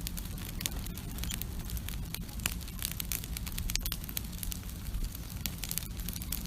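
Wood campfire crackling, with irregular sharp pops and ticks over a steady low rumble.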